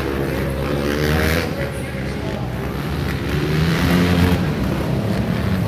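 Motocross dirt bike engines revving on the track, their pitch rising and falling as the riders work the throttle.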